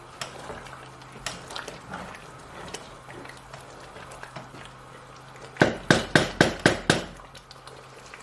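Spoon stirring egusi soup in a metal pot with light scrapes and clinks, then about six sharp metal knocks in quick succession a little past halfway.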